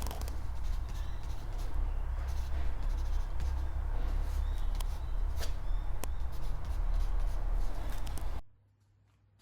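Pen-on-paper writing and light handling clicks over a low, steady rumble, cutting off abruptly about eight and a half seconds in.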